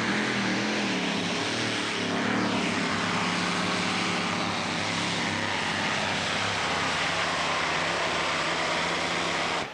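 Competition pulling tractor's high-horsepower engines running at full power during a pull, a loud steady blare that cuts off suddenly near the end.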